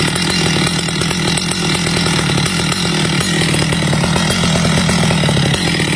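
Stihl two-stroke chainsaw running steadily and loudly, cutting teak wood.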